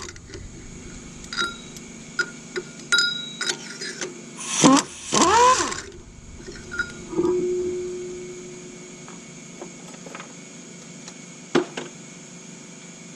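Hand tools and metal engine parts clinking during an engine teardown: scattered light clicks and clinks, two short squeals that rise and fall in pitch about halfway, and a metallic ringing tone about seven seconds in that fades out.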